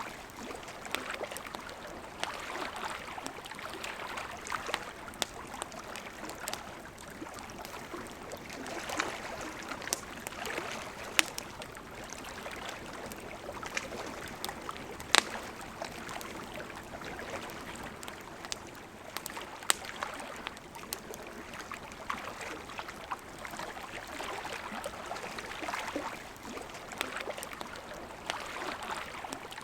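River water flowing steadily, with a campfire crackling over it in scattered sharp pops, the loudest about halfway through.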